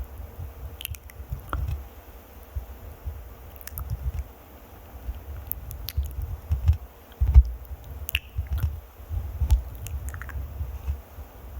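Close-miked ASMR triggers on the microphone: irregular low scratching and rubbing with scattered small clicks.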